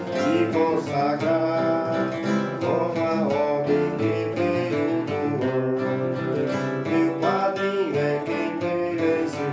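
Music: strummed acoustic guitar playing a hymn accompaniment, with a melody line gliding over it.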